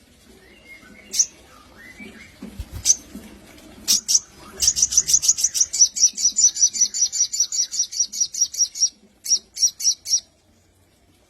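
Sogon bird chirping: a few single sharp chirps, then a fast, even run of high chirps at about four or five a second lasting some four seconds, then a few more.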